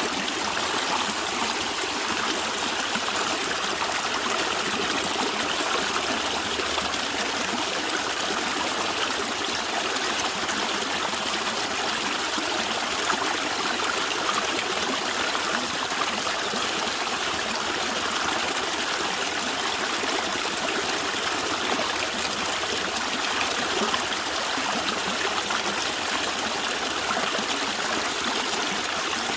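A stream of water gurgling and trickling, a steady rushing flow.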